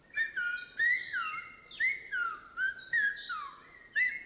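Silbo Gomero, the whistled language of La Gomera, from a recording: a run of sliding whistles, each rising and then falling, about one a second, with fainter, higher twittering notes above.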